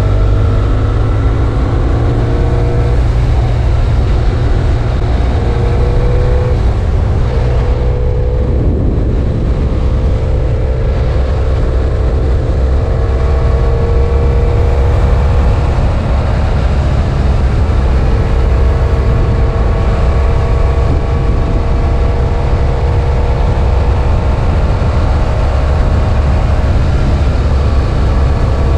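BMW F800 ST parallel-twin engine running while riding: it revs up through the gears in the first few seconds, eases off briefly around the middle, then holds a steady cruise over a heavy low rumble.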